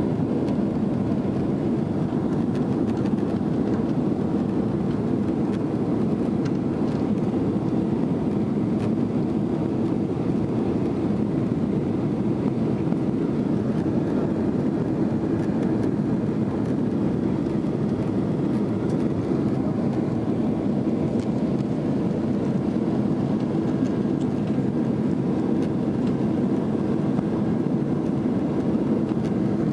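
Boeing 767 jet engines and airflow heard inside the passenger cabin, a steady low rush with no change in level.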